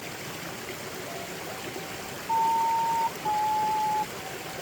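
Stream water rushing steadily. Over it come a few faint flat whistle-like tones, then two loud held pure tones of almost a second each about halfway through, the second slightly lower.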